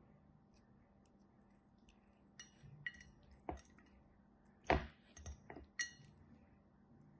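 Several light clinks and taps of small hard objects, some with a brief ring, the loudest knock a little under five seconds in.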